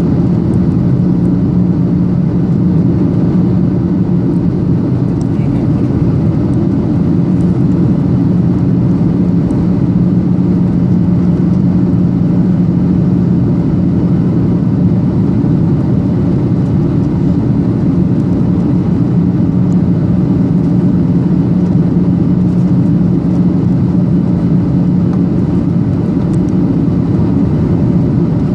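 Steady cabin noise inside a Boeing 737-800 airliner in flight: the CFM56 engines' drone and the rush of airflow, with a steady low hum that does not change.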